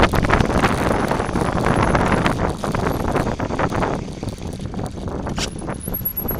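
Mountain bike descending a dirt forest trail: tyres crunching over the ground and the bike rattling over bumps, with wind rumbling on the microphone. It eases after about four seconds, and a faint high whine comes in near the end.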